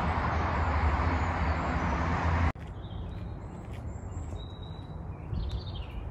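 A loud, steady rushing noise that cuts off abruptly about two and a half seconds in. It gives way to quieter woodland ambience with birds chirping: short high calls and a falling chirp near the end.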